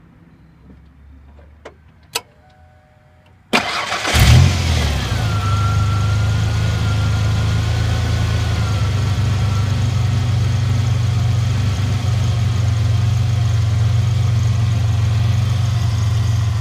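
1994 Ford Ranger's 4.0-litre V6 started: two faint clicks, then brief cranking about three and a half seconds in. It catches with a short flare of revs and settles into a steady, smooth idle.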